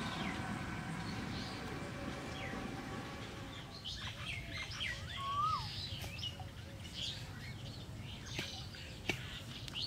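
Wild birds calling and chirping around a pond, with short chirps and a clear whistled call that rises and falls, heard about halfway through. A steady hum of several tones fades out over the first few seconds, and there are a few sharp clicks.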